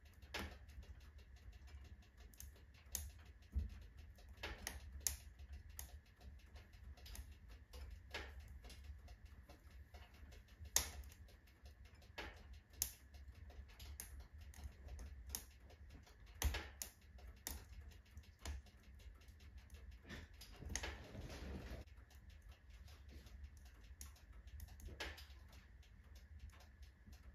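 Firewood burning in a wood stove, crackling with irregular sharp pops and snaps. About two-thirds of the way through comes a short hiss.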